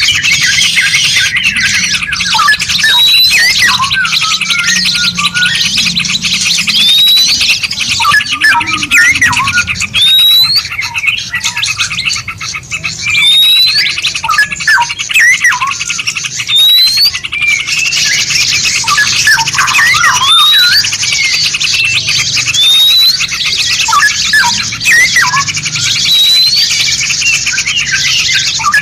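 Several songbirds calling at once in a layered masteran recording: a short upward-sweeping whistle repeats about every two seconds over a dense, high hiss, with many quick chirps beneath it.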